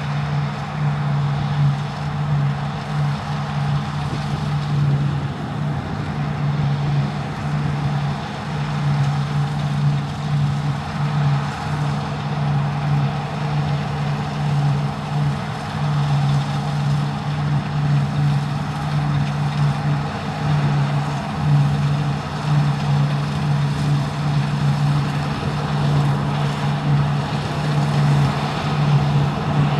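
Deutz-Fahr Topliner 4090 HTS combine harvester running steadily at working speed while cutting barley: a constant engine drone with a hiss above it.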